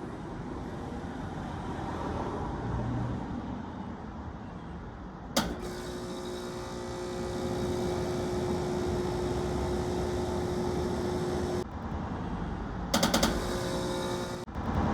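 Air conditioner starting up: a steady hum, a sharp click about five seconds in, then a steady droning hum with a held tone. The hum cuts off near the end and fast rattling pulses follow.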